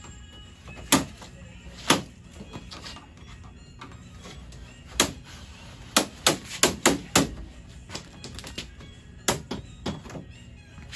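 Sharp clicks and knocks of a TV's plastic housing being worked apart by hand, irregular at first, then a quick run of five snaps about six to seven seconds in.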